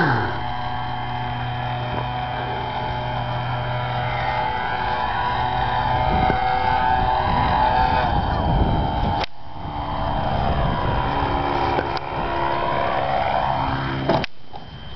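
Radio-controlled model airplane's motor and propeller running, the pitch wavering up and down with the throttle. It breaks off briefly about nine seconds in and again near the end.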